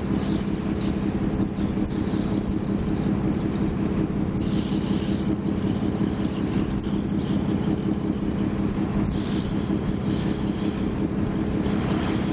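Ferry engine running steadily under way: an unbroken low drone with a steady hum, with some rushing water and wind noise over it.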